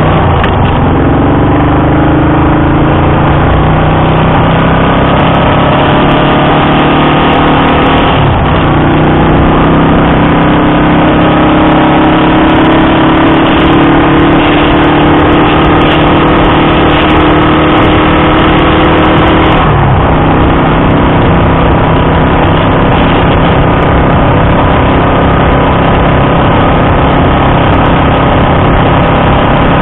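Honda Dream CL250's air-cooled parallel-twin engine under way, heard from the bike itself. The revs climb for the first eight seconds, break briefly as it shifts up, then run steady until they drop about twenty seconds in, with wind and road noise under the engine.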